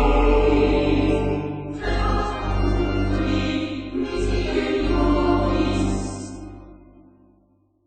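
Choral devotional music: sustained choir voices over a steady low drone, fading out over the last couple of seconds.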